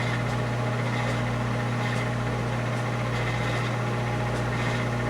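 Microwave oven running: a steady electrical hum with a strong low drone.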